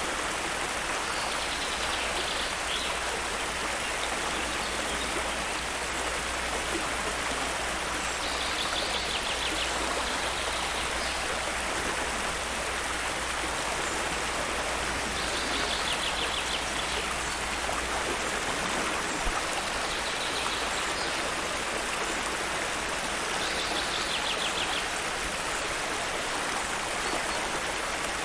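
Steady rush of a flowing stream. A bird's short, rapid trill, high-pitched, comes four times, about every seven seconds.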